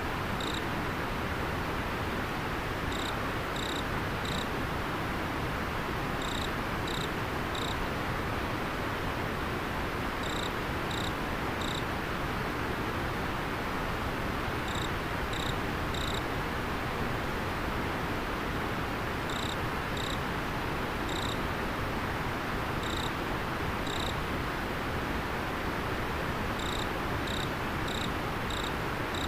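Steady rushing of river water, with an insect chirping over it in short, high groups of three or four notes every few seconds.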